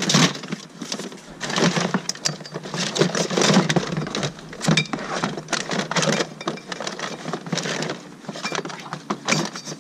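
Irregular clattering, knocking and rustling of scrap, insulated copper wire among it, being grabbed out of a dumpster and loaded into a vehicle.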